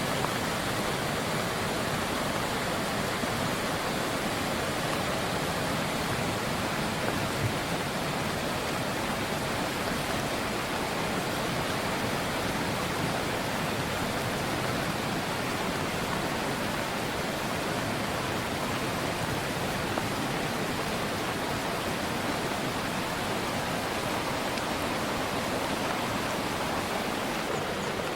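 Rushing river water: a steady, unbroken roar of fast-flowing water.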